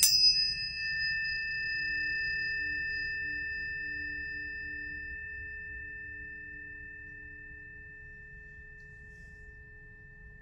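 Planetary tuning forks struck at the very start, then ringing on with several steady pure tones, high and low, that slowly fade away.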